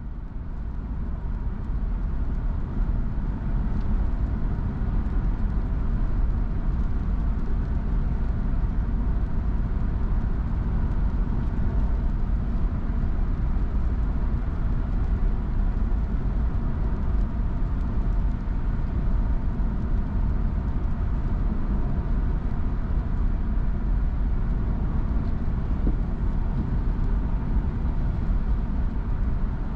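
Steady road and engine rumble of a car driving, fading in over the first couple of seconds.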